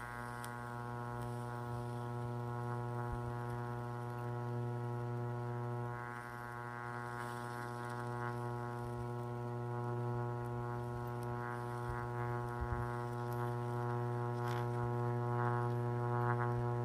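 High-voltage arc from an oil-cooled microwave oven transformer, buzzing with a steady, loud hum and a few brief crackles, growing slightly louder toward the end.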